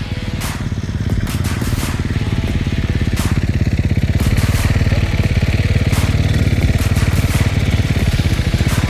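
Dirt bike engine running hard under load, getting louder about three or four seconds in, with scattered sharp knocks.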